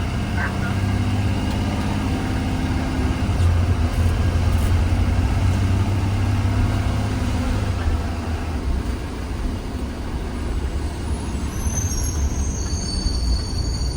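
Steady low rumble of a 2020 Blue Bird Vision school bus's engine and road noise, heard from inside the cabin while it drives. A high-pitched squeal comes in near the end.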